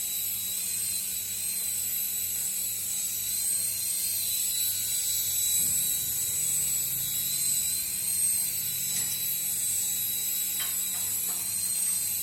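Small palm-controlled toy helicopter's electric motor and rotors whirring steadily in flight: a high, even whine over a fast pulsing hum, with a few faint clicks near the end.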